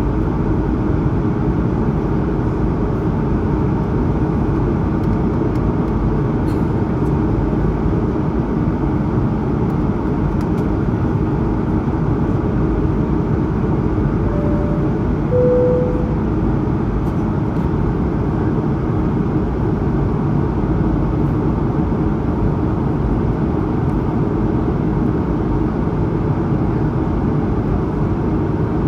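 Steady cabin noise of an Airbus A220-100 in the climb: the roar of its Pratt & Whitney PW1500G geared turbofans and the rush of air. About halfway through, a short two-note chime sounds, high then lower.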